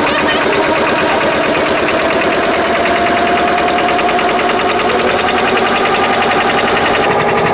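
Boat engine running steadily, a loud, even hum with a fine rapid pulsing.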